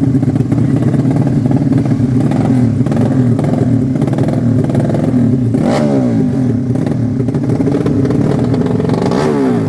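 Racing motorcycle engines running and revving, several engines at once, with sweeping rises and falls in pitch about six seconds in and again near the end.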